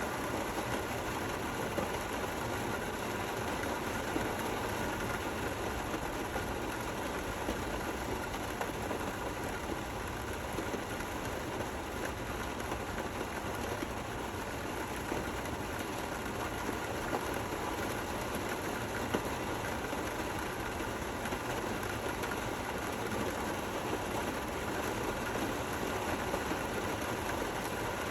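Gentle rain falling steadily, an even hiss with occasional slightly louder drop hits.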